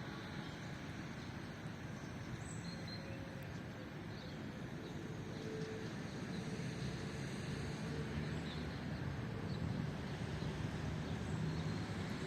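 Steady rain hiss in a park, with a low rumble underneath and a few faint, short bird chirps.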